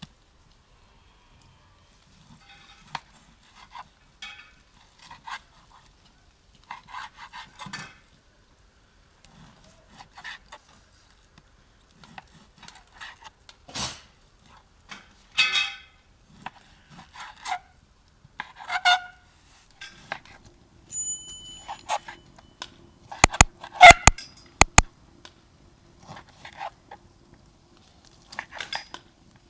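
Scattered clinks and knocks of dishes and kitchen utensils being handled, some ringing briefly, with a cluster of sharp, loud clicks about two-thirds of the way through.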